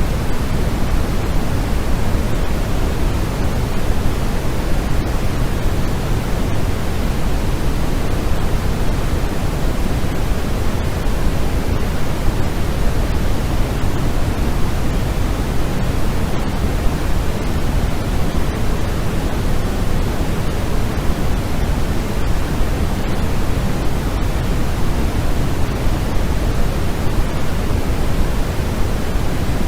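Steady, unchanging sleep-aid noise track, heavier in the low end than in the highs, with no events or changes.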